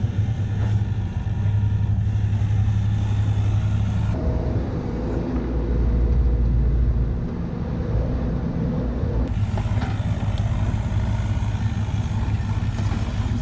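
Diesel engine running steadily. Its note changes between about four and nine seconds in, with the low hum deepening and growing louder for a few seconds.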